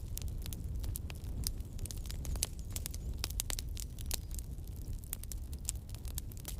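Campfire burning, wood crackling and popping with many irregular sharp snaps over a low steady rumble of the flames.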